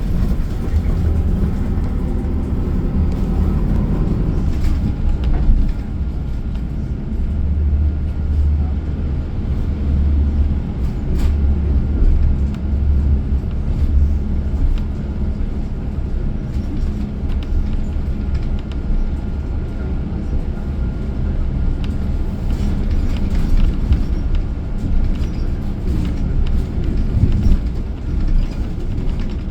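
City transit bus heard from inside the cabin as it drives: a steady, deep engine and road rumble.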